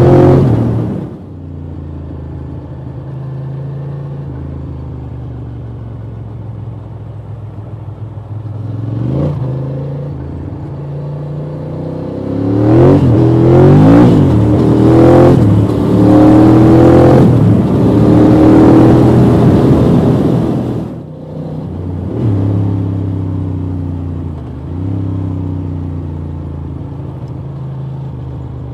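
Ducati Monster 620's air-cooled L-twin engine heard from the rider's position. The throttle closes about a second in and the bike cruises steadily, then pulls hard through the gears with rising and falling pitch and a rushing hiss. Near the end it rolls off with a couple of short downshift blips, slowing into a roundabout.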